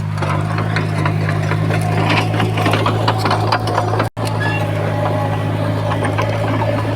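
Bulldozer's heavy diesel engine running steadily, with a scatter of metallic rattles and clicks over its low drone. The sound drops out for an instant about four seconds in.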